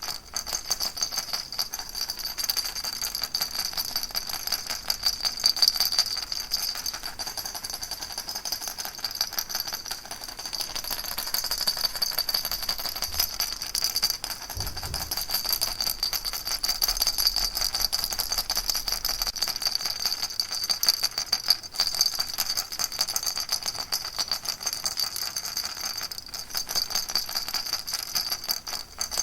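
A baby rattle shaken steadily and without pause, a dense, fast rattling.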